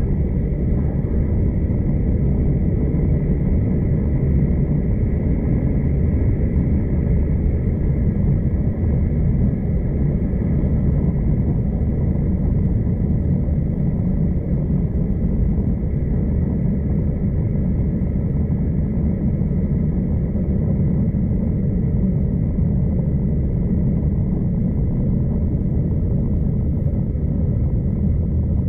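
V/Line passenger train running at speed, heard from inside a carriage: a steady low rumble of wheels and running gear with a faint steady high whine.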